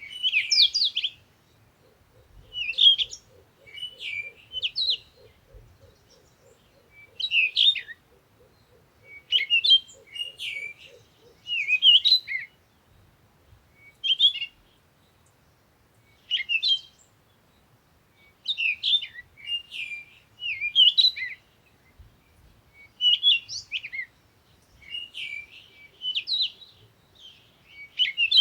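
Birdsong: short, chirping phrases repeated every second or two, with a faint low pulsing sound underneath for the first ten seconds or so.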